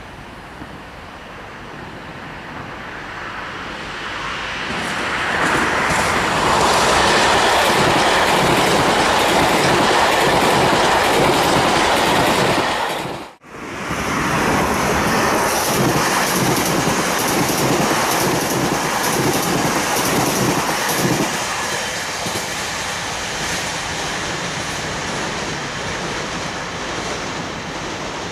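JR Hokkaido 733 series 3000-subseries electric multiple unit passing at speed, growing louder as it approaches, its wheels clattering rhythmically over the rail joints. The sound cuts out for a split second about halfway. The clatter then carries on and eases off near the end.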